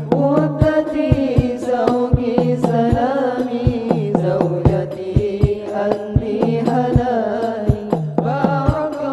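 Hadroh music: frame drums and the deep tam bass drum beating a regular rhythm under a sung, chant-like melody.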